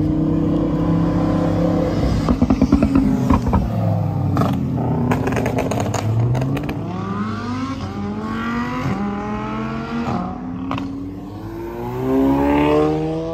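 Several performance cars revving and accelerating away, among them a Lamborghini and a red Ford Mustang, their engine notes climbing in pitch again and again through the gears. There is a burst of rapid crackles about two to three seconds in, and an engine rises loudly near the end.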